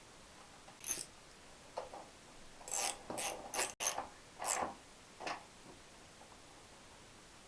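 Hand tools and metal motorcycle parts being handled: about seven short mechanical clicks and scrapes between one and five and a half seconds in.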